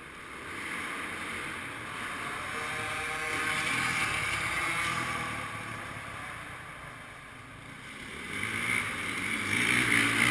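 Motocross bike engine running and revving on the track, growing louder to about four seconds in, fading, then building again near the end.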